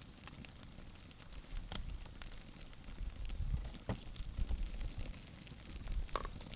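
Wood campfire crackling with scattered sharp pops, a few louder ones spaced out, over low rumbling gusts that swell several times.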